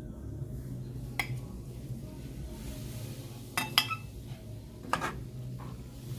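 Serving utensil clinking against a pot and plate while pasta is dished out: a few sharp clinks, one about a second in, a cluster of the loudest near four seconds, and another about five seconds in.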